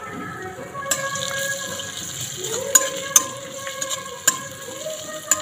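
Nigella seeds and grated ginger sizzling in hot oil in a metal kadai. The hiss starts about a second in, and a metal spoon stirs and scrapes through them, clicking sharply against the pan several times.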